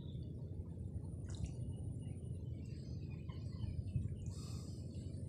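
Outdoor ambience: a steady low rumble with scattered faint bird chirps, a small cluster of them near the end.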